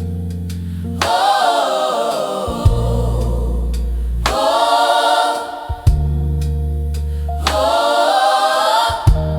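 Gospel choir singing in sustained phrases over held low chords, with a sharp percussive hit about every three seconds.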